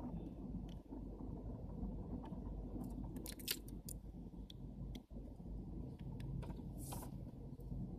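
Small clicks and taps of camera lens parts being handled and fitted during reassembly, with a cluster of sharper clicks about three and a half seconds in and a short scrape near the end, over a steady low background hum.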